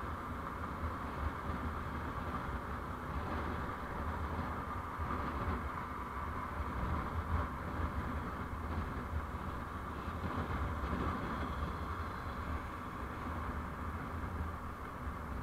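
Steady driving noise from a moving road vehicle: engine, tyre and wind noise, without distinct events.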